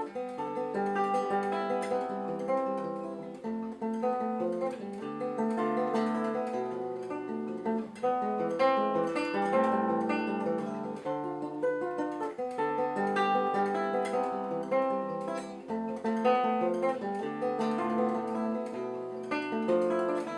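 Acoustic guitar playing the instrumental introduction to a song, a steady run of plucked notes and chords.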